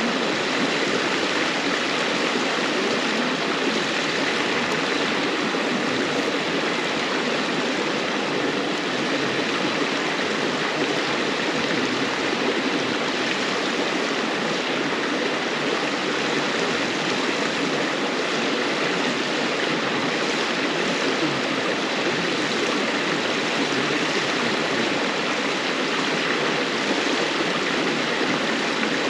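River water flowing and babbling steadily over stones, an even rushing murmur with no change in level.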